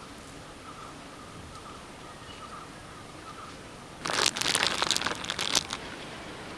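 A loud burst of crackling and crinkling, lasting under two seconds, starts about four seconds in. Before it, faint repeated chirping sits over a quiet outdoor background.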